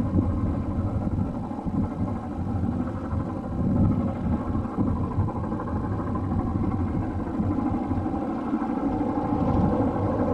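Train running: a steady low rumble without a clear exhaust beat.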